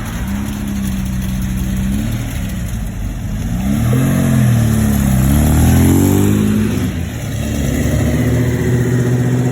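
Car engine revving and accelerating, its pitch rising and falling several times and loudest around the middle.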